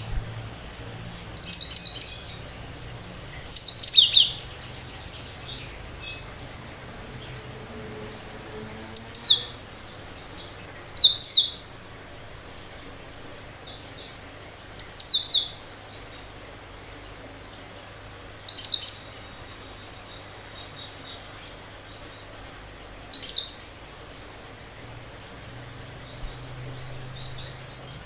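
Cinereous tit (gelatik batu) singing sharp, high-pitched song phrases, the 'tembakan' shots that bird keepers prize. There are about seven short bursts of quick notes, several falling in pitch, spaced a few seconds apart.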